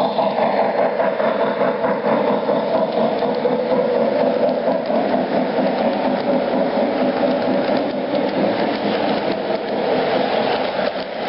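O scale model train locomotives running on the track, a steady mechanical whirring and rattling of their electric motors, gears and wheels.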